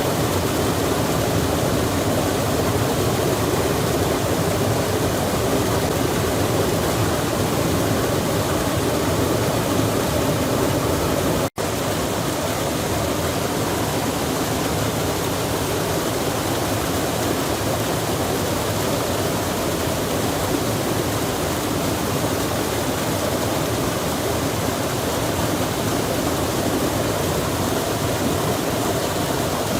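Steady rush of a flowing stream with rain falling. It cuts out for a split second about a third of the way through, then carries on unchanged.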